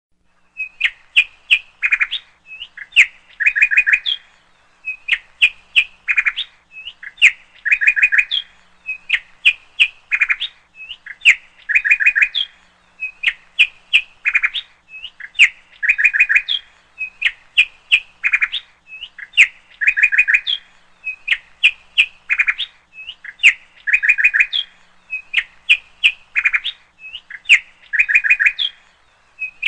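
Bird chirps: a quick phrase of high chirps and trills that repeats in the same pattern about every two seconds, like a looped recording.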